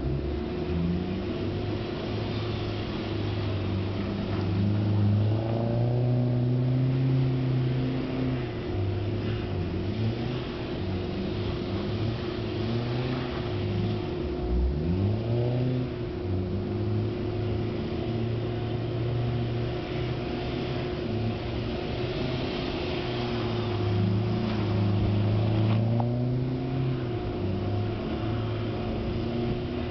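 Audi A4 1.8T quattro's turbocharged four-cylinder, breathing through a Borla exhaust, revving up and down over and over as the car spins donuts on snow. The engine note climbs and holds several times, with one deep drop and pick-up about halfway through.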